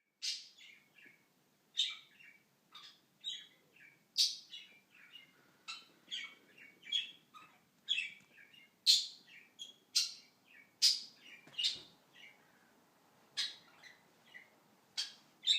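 Pet budgerigar calling over and over, a sharp high chirp about once a second, each with a short warbling tail. These are a bored budgie's contact calls for its owner.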